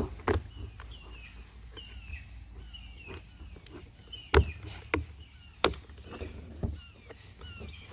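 A small bird chirping over and over, with several sharp clicks and knocks in between; the loudest knocks come about four and a half and five and a half seconds in.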